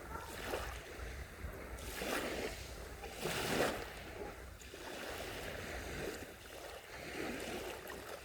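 Small sea waves washing onto the shore, each wash swelling and fading every second or two, over a low steady rumble.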